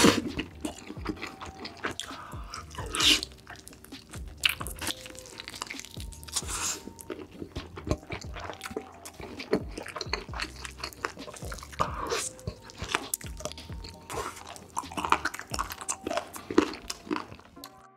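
Close-miked ASMR chewing of a big mouthful of sauce-glazed fried chicken leg: wet, irregular chewing and crunching with squelchy mouth noises. Soft background music runs underneath.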